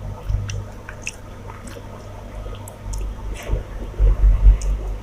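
Close-miked chewing and wet squishing of rice and fish curry in the mouth, with scattered small clicks and a few low thumps about four seconds in.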